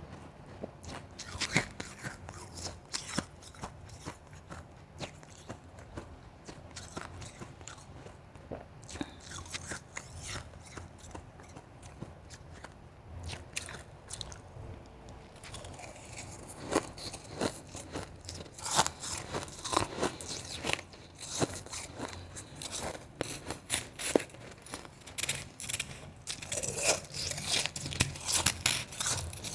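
Close-up crunching and chewing of soft, crunchy ice made from blended and shaved spring-water ice cubes, dense irregular crackles that grow busier and louder about halfway through.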